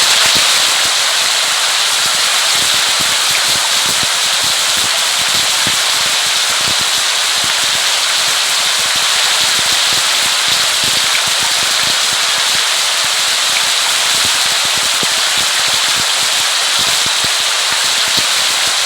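Steady rain falling, a dense patter of drops like crackle over a constant hiss.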